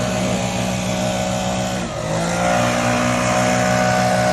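An engine running steadily. Its pitch dips briefly about two seconds in, then picks back up and holds a little higher.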